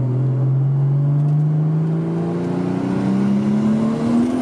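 Nissan Skyline R34 GT-T's turbocharged RB25DET Neo straight-six pulling hard through a gear, its note climbing smoothly and steadily in pitch, heard from inside the car.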